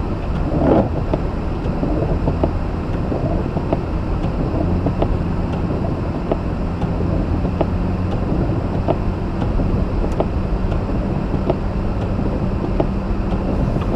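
Mazda RX-8's two-rotor rotary engine running steadily under way, with road noise and scattered light ticks.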